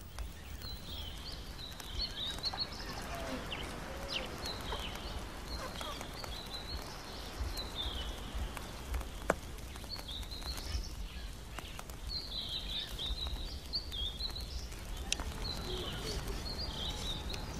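Birds calling in the bush, short warbling phrases repeating every second or two, over a steady low rumble of outdoor ambience, with a couple of faint sharp ticks.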